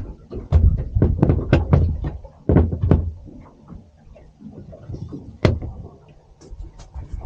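A series of hard knocks and thumps, bunched in the first three seconds, then one sharp knock about five and a half seconds in and a few light clicks.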